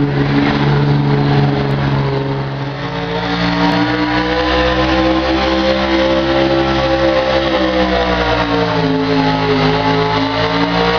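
Truck engine running hard under load in a truck pull. Its revs sag a couple of seconds in, then the pitch climbs slowly and holds high, dipping slightly near the end.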